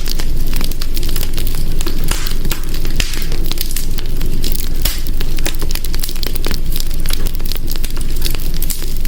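Wood fire crackling in a hearth: a steady low rumble of flames with frequent sharp pops and snaps of burning wood.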